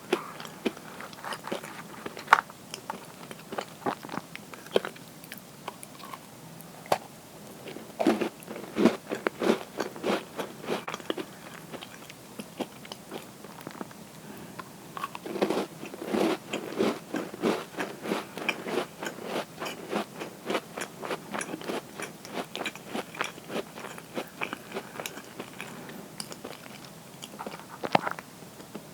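Close-miked biting and chewing of crisp butter cookies: sharp crunches and crumbly chewing clicks, with denser crunching bites around eight and sixteen seconds in and again near the end.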